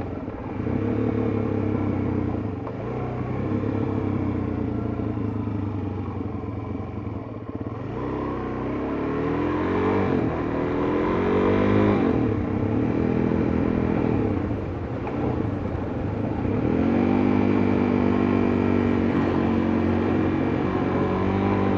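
Suzuki DR-Z400S single-cylinder four-stroke engine running under way. Its pitch rises as it revs up about eight seconds in and again about sixteen seconds in, and holds steady between.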